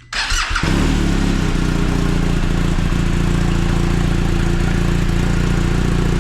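A 2023 BMW R 1250 RS boxer-twin engine, jump-started from a portable jump box on a flat battery. The starter cranks for about half a second, then the engine catches and settles into a steady idle.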